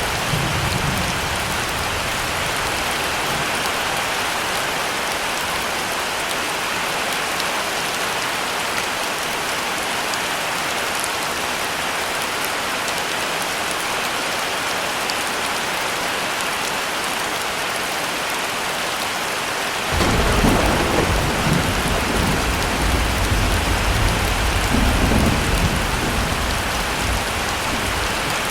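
Heavy rain falling steadily. About two-thirds of the way through, a loud clap of thunder breaks in suddenly and rumbles for several seconds, swelling once more before it dies away.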